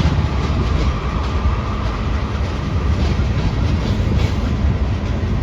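Norfolk Southern freight train rolling past in a steady low rumble, its wheels ticking now and then over the rail joints.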